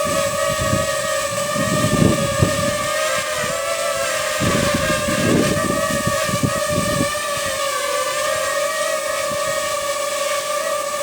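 DJI drone's propellers humming steadily while it hovers in strong wind, the pitch wavering a little as the motors fight the gusts. Wind buffets the microphone with low rumbles about two seconds in and again from about four to seven seconds.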